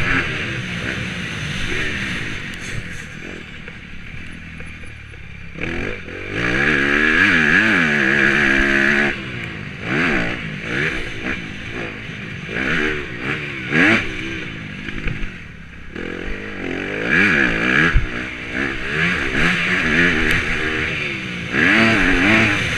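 Motocross dirt bike engine revving hard and easing off over and over, its pitch climbing and falling as the throttle opens and closes. It is quieter for a few seconds about four seconds in and again around fifteen seconds.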